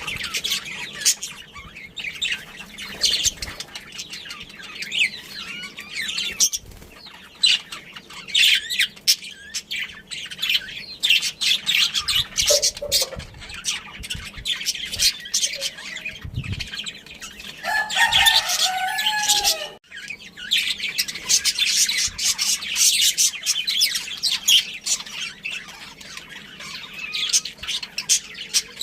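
Budgerigars chirping and chattering without pause in quick, high chirps. About eighteen seconds in, a lower, longer call sounds over them for a second or two.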